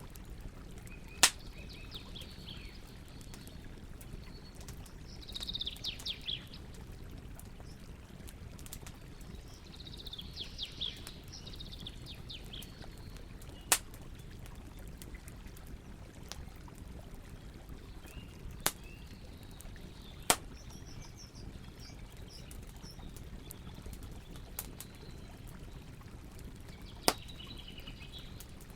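Campfire crackling, with about five sharp pops a few seconds apart over a steady low rumble. Birds call in several short spells.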